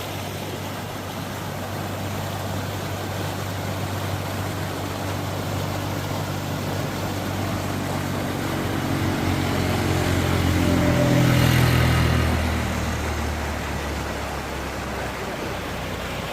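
A motor vehicle's engine draws closer, is loudest about eleven seconds in, then drops in pitch and fades as it passes. Behind it runs the steady rush of a stream or waterfall.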